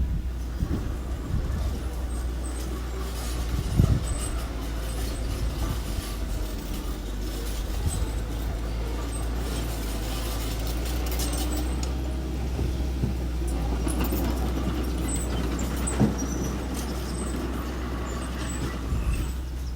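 Small earthmoving machine's engine running steadily with a low rumble. Two sharp knocks stand out, one about four seconds in and another later on.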